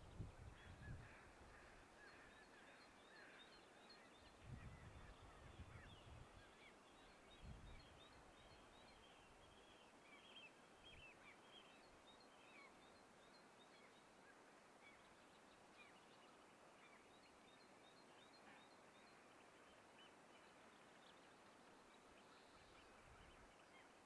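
Near silence, with faint birds chirping in many short calls throughout. A few low rumbles come in the first eight seconds.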